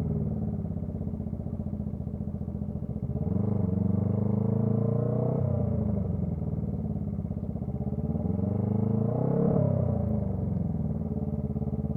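Honda CB125T's small parallel-twin engine running through a loud muffler while riding. The revs rise and then drop off twice, about three and eight seconds in.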